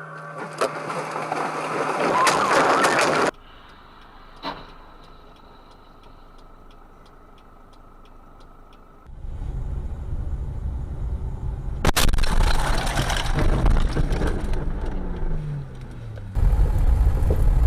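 Car road and engine noise in several separate stretches that start and stop abruptly, with a sharp bang about twelve seconds in.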